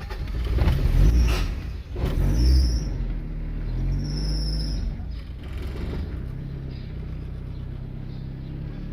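A Honda D16 four-cylinder engine in a 1991 Civic catches on a cold start right after cranking. It surges in revs twice in the first few seconds, with two short high squeals, then settles into a steady idle.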